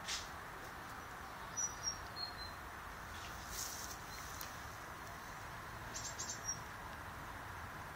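A steady low hiss of outdoor background noise with a few short, high bird chirps over it: a handful about a second and a half to two and a half seconds in, and another near the end. Small clicks come near the start and again around six seconds in.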